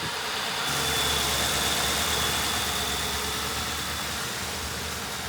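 Ford Crown Victoria Police Interceptor's 4.6-litre V8 idling steadily, with a faint high whine over it for the first few seconds. The engine is running only on fuel poured into the intake, because the fuel pump is bad.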